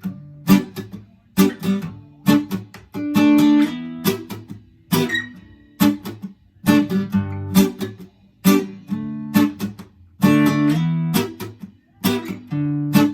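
Acoustic guitar strumming short, chopped chords in a reggae rhythm, each stroke cut off, with brief gaps between them.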